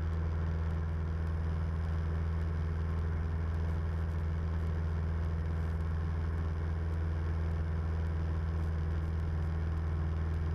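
Cabin drone of a 1976 Cessna 172M's four-cylinder Lycoming engine and propeller, running steadily during the descent with no change in pitch or level.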